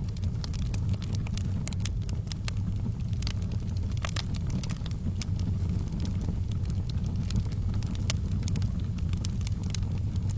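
Wood fire burning in a fireplace: a steady low roar with many sharp crackles and pops.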